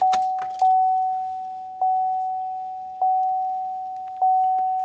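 Pickup truck's dashboard warning chime sounding with the ignition key turned to on: one steady mid-pitched tone, re-struck a little over once a second and fading between strikes.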